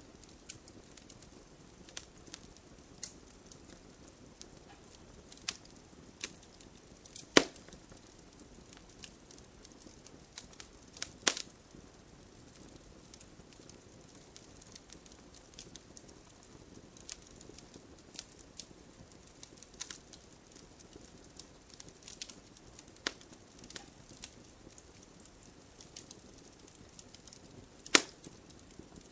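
Wood bonfire crackling, with irregular sharp pops and snaps, three of them much louder than the rest, over a faint steady hiss of rain.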